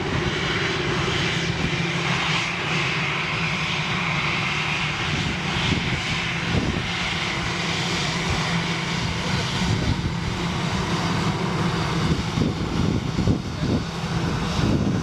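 Jet airliner engines running with a steady, continuous sound, as heard from beside an airport runway. Wind buffets the microphone throughout.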